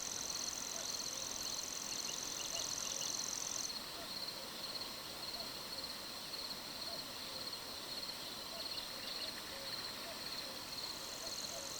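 Summer night chorus of birds and insects: a high, dry, fast reeling trill that stops a few seconds in and starts again near the end, over a second steady pulsing trill and scattered short chirps and faint low calls.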